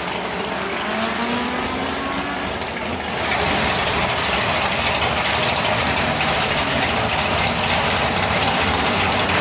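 Car engines running, with gliding engine tones rising and falling. About three seconds in the sound turns suddenly louder, with a steady rushing noise over the engines.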